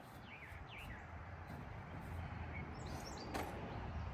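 Birds chirping a few short falling notes over a steady low outdoor rumble, with one sharp click about three and a half seconds in.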